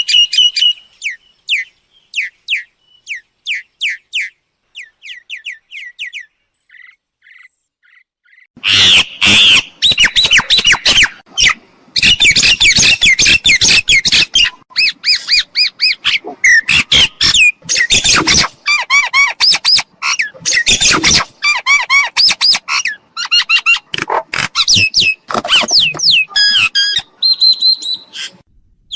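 Myna calls: a run of short, repeated whistled notes over the first several seconds, a brief lull, then from about nine seconds in a loud, dense stretch of harsh squawks and chatter mixed with whistles.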